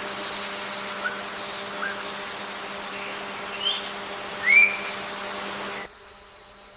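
Forest ambience: birds give a few short, upslurred whistled calls, scattered through, over a steady insect hiss. The background drops away abruptly near the end.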